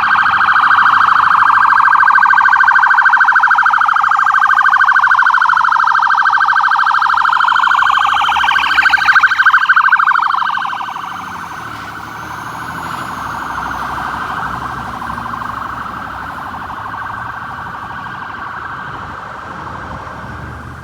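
Fire apparatus electronic sirens wailing, with several sweeping tones overlapping and crossing. The sound is loud for about the first ten seconds, then drops in level and carries on more faintly.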